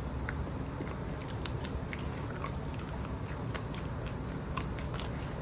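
A person chewing a piece of raw small banana close to the microphone, with scattered soft mouth clicks.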